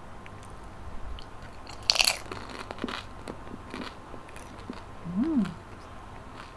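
Biting into crispy fried siomai: a loud crunch about two seconds in, then chewing with softer crunches. A short hum a little after five seconds.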